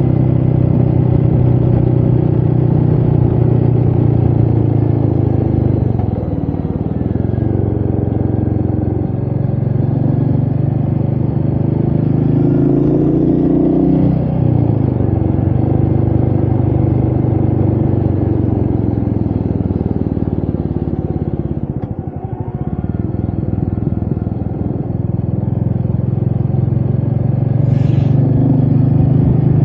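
Royal Enfield Meteor 350's single-cylinder engine running under way on the motorcycle. The engine note drops and picks back up three times over the stretch.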